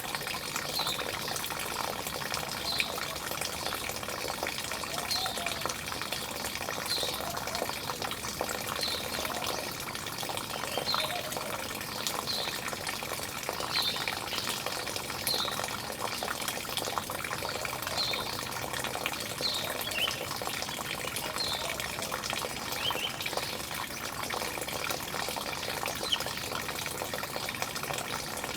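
Steady running, splashing water with small birds calling over it: short high chirps every one to two seconds and some fainter lower calls.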